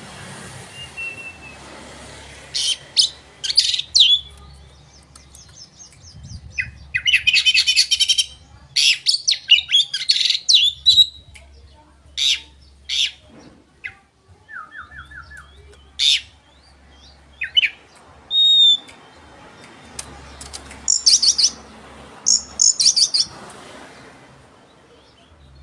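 Oriental magpie-robin (kacer) in full song: a fast, varied run of chirps, rapid trills, harsh rasping notes and short clear whistles with brief pauses between phrases.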